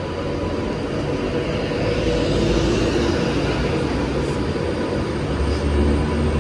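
Avanti West Coast Class 390 Pendolino electric train accelerating away along the platform. Its wheel rumble and traction hum grow steadily louder, with a deep low hum coming up near the end.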